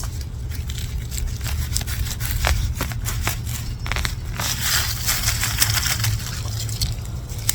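Leafy celeriac stalks and greens rustling and snapping as they are handled and pulled at harvest, a run of crackles and rustles that grows busier from about halfway in, over a steady low rumble.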